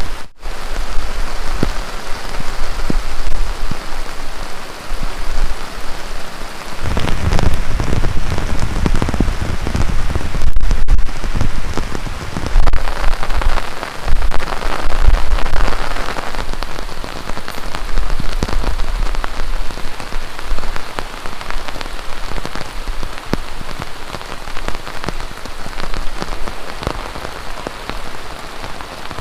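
Heavy rain falling steadily, with many separate drop ticks over an even hiss. A low rumble swells and fades a few times.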